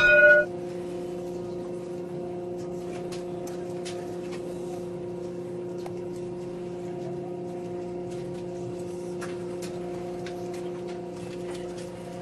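Passenger train carriage interior: a steady electrical hum with faint scattered clicks and creaks. A short electronic beep sounds right at the start.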